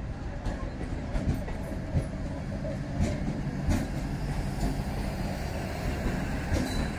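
Passenger train with a diesel locomotive rolling slowly past: a steady low rumble, with the wheels clacking over rail joints about once a second.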